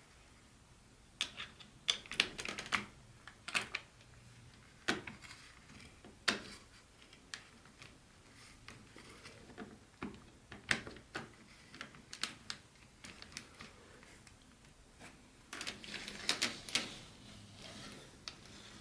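Irregular clicks, taps and light rustles of hands handling HO-scale model train pieces and their packaging. They come in clusters, busiest from about a second in to about three seconds, and again from about fifteen to seventeen seconds in.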